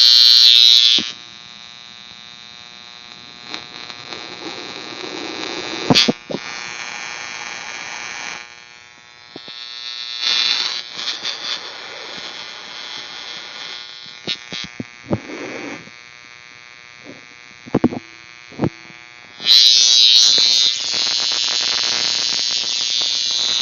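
High-voltage plasma spark buzzing loudly, cutting out about a second in and starting again near the end. In between there is quieter crackling with scattered sharp clicks. The steam fed through the spark is not igniting.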